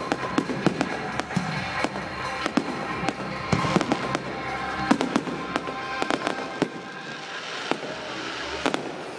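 Fireworks display: a dense run of sharp bangs from aerial shells bursting, with crackling between them and music playing underneath. The bangs thin out near the end.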